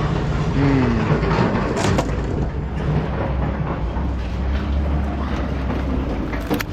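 An engine running low and steady, with scrap metal being handled: intermittent clanks and knocks, the loudest about two seconds in.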